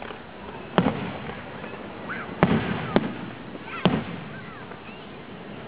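Aerial firework shells bursting: four sharp booms, one about a second in, two close together around two and a half to three seconds, and one near four seconds, each trailing off in a short rumble.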